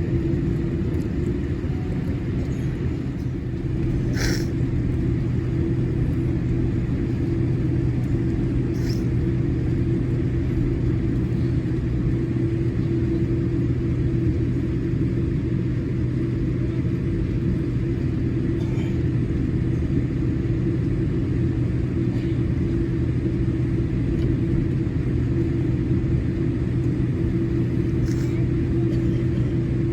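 Steady low rumble and hum inside the cabin of a Boeing 787-8 Dreamliner on the ground after landing, with a few short clicks now and then.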